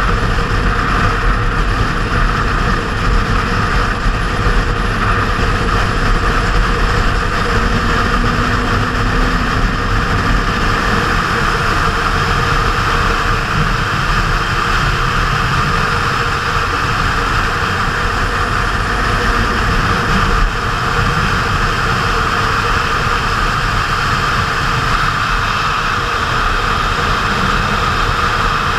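Kawasaki Z750R inline-four motorcycle under way: steady wind rush on the microphone with the engine running underneath.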